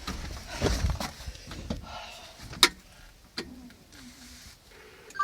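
Handling noises: rustling and thumps at first, then a few separate sharp clicks and knocks, the loudest about two and a half seconds in, with no engine running.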